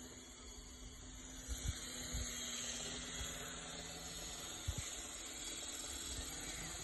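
Ikarus Eco 8 electric RC helicopter running in flight: a steady hum from the motor and rotor under a constant hiss, with a few short low thumps.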